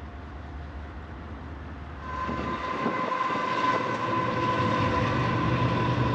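Diesel freight locomotives passing: a low rumble at first, then about two seconds in a louder passing train with a steady high whine over the rumble.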